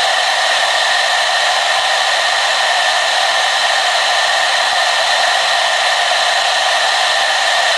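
Hair dryer running continuously at a steady setting: an even, unchanging rush of air with a steady motor whine.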